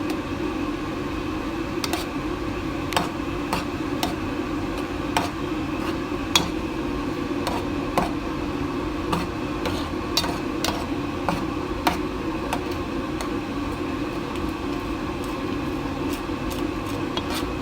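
A utensil stirring a thick creamy sauce in a cooking pan, with irregular clicks and knocks against the pan, over a steady hum.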